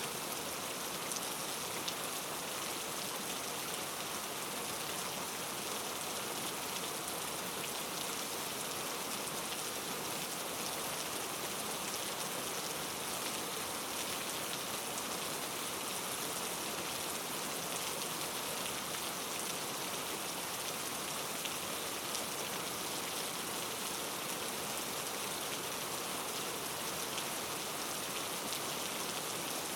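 Steady rain falling, a continuous even hiss with fine patter of drops.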